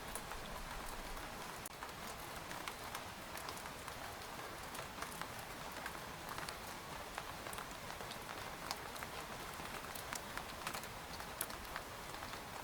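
Steady rain falling on a tent, with individual drops tapping the fabric at irregular intervals over a soft hiss.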